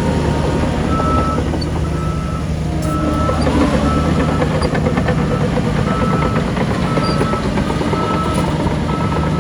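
Heavy diesel earth-moving machinery running steadily while a reversing alarm gives a short, high beep about once a second.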